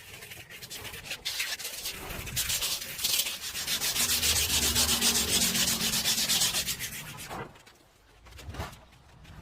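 Abrasive sanding and rubbing on the surface of a salvaged, barnacle-encrusted object as its crust is worked off, in quick repeated strokes. It stops after about seven seconds, and a brief scrape follows near the end.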